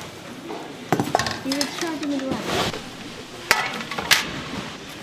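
Kitchen clatter: metal utensils and dishes knocking and clinking, several sharp knocks over a steady hiss, with a brief voice in the middle.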